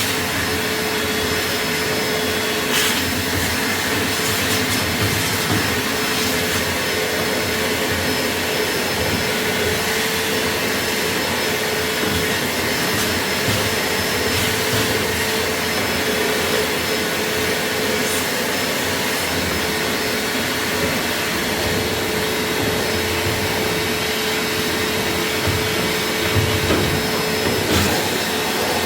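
A motor-driven machine running steadily: an even rushing noise with a steady hum, unbroken throughout.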